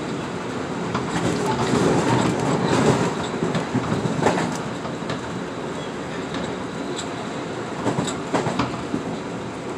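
Metro-North M8 electric train running at speed, heard from inside the car: a steady rumble and rattle of wheels on rail that swells louder for a few seconds early on, with sharp clicks as the wheels strike the track, several in quick succession near the end.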